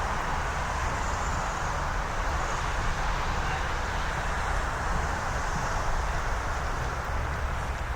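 Steady city street ambience: a continuous wash of traffic noise with a low rumble beneath.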